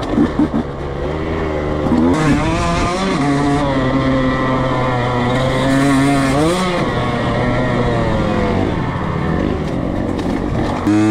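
Dirt bike engine ridden on a motocross track. The revs climb sharply about two seconds in, hold steady, rise again near the middle and then fall away.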